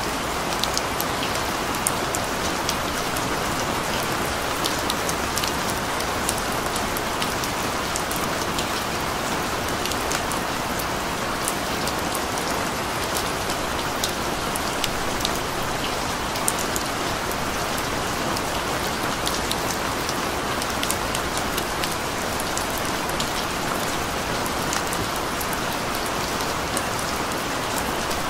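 Steady rain falling, a constant even hiss with many sharp ticks of individual drops striking close by.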